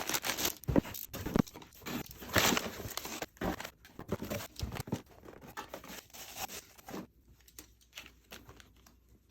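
Packaging being handled, crinkled and torn in short irregular rustles with sharp clicks, growing much quieter about seven seconds in.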